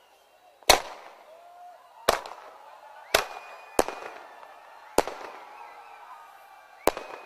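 Fireworks exploding: six sharp bangs at uneven intervals, each trailing off in a short echo.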